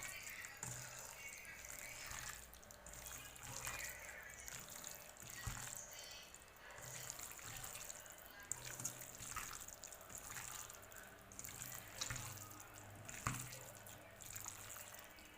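Hands kneading raw chicken pieces with mustard oil, turmeric and salt in a bowl. The sound is faint, wet and irregular, with small sticky clicks.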